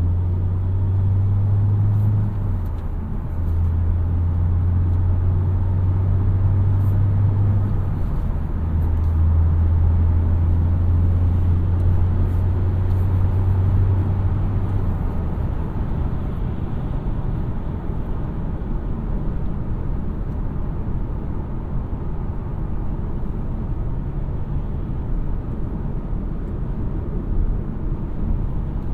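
2017 Mazda CX-3's 2.0-litre four-cylinder petrol engine droning under way, with short breaks about two and eight seconds in. About fifteen seconds in the drone fades, leaving a steady rush of tyre and road noise.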